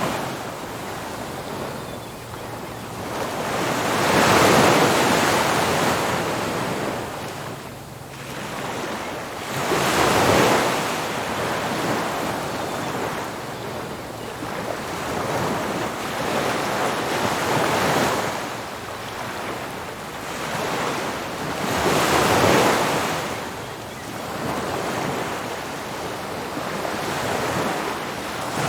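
Ocean surf breaking on a beach, each wave swelling to a loud rush and falling away, about every four to six seconds, with the loudest breaks about four, ten and twenty-two seconds in.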